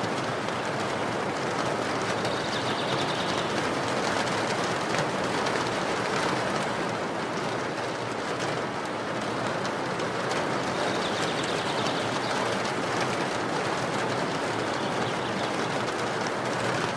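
Steady rainfall: a dense, even hiss of drops. A faint bird trill comes twice, about three seconds in and again around eleven seconds.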